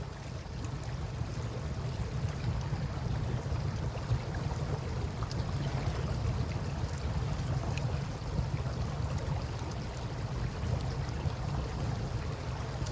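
Wood campfire crackling with scattered small pops and snaps over the steady wash of river water, with a constant low rumble underneath.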